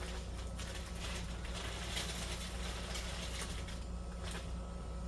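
Faint light taps and rustles of kitchen handling over a steady low hum.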